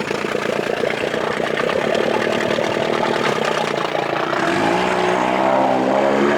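2000 Johnson 25 hp two-stroke outboard motor running steadily, then throttled up about four and a half seconds in, its pitch rising as it speeds up.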